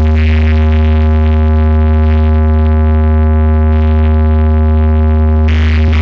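A large DJ sound system playing a long, steady, very loud deep bass note with a stack of higher overtones, as in a bass-vibration test track. Near the end the held note gives way as the music changes.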